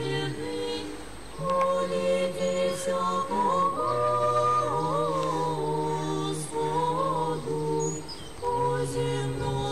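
Orthodox church choir singing a liturgical chant unaccompanied, in several parts, on long held notes with short breaks between phrases about a second in and about eight seconds in.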